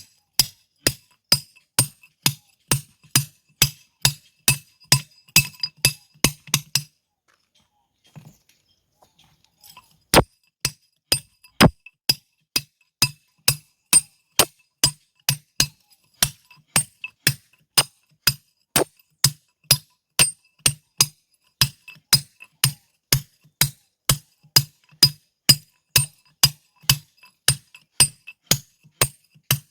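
Hammer blows ringing on a steel tool driven into stone, a steady even beat of about two strikes a second. The blows stop for about three seconds around seven seconds in, then resume at the same pace.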